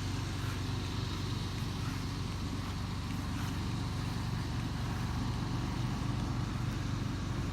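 A steady low mechanical hum that holds constant throughout: an engine or motor running at an even speed.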